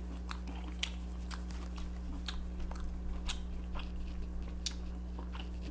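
Close-miked chewing of lobster tail meat with the mouth closed: irregular small wet clicks and smacks over a steady low hum.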